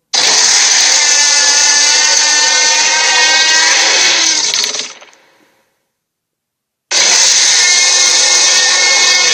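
Cartoon sea monster roar sound effect, heard twice. A raspy, wavering roar starts suddenly and lasts about four and a half seconds before fading. After a second or so of silence, a second roar starts.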